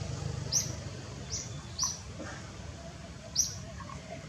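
A small bird chirping: four short, high chirps spread unevenly over a few seconds, each dropping slightly in pitch, over a low steady background noise.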